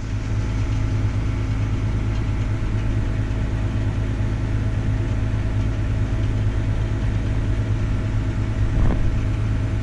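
Combine harvester running steadily under harvest load, a constant low engine drone with steady tones from the machine.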